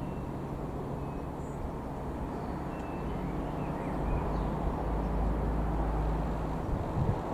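Large aircraft's engines droning steadily with a low hum, growing louder about four seconds in. Faint bird chirps sound over it.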